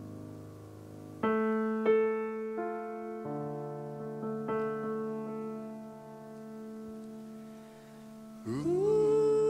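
Piano or electric keyboard playing a slow, gentle passage of a love ballad. Chords are struck about a second in, followed by a few single notes that ring and fade. Near the end a voice starts singing.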